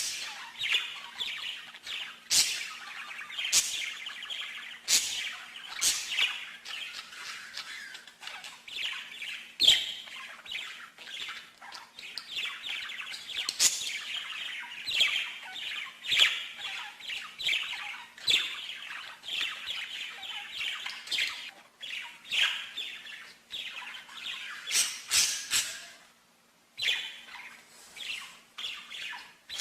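A songbird singing a long, continuous song of quick chirps and trills, broken by sharp, loud notes, with a brief pause near the end.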